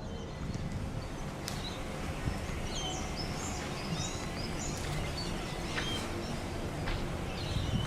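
Birds chirping over a steady background of outdoor noise, with a few sharp clicks.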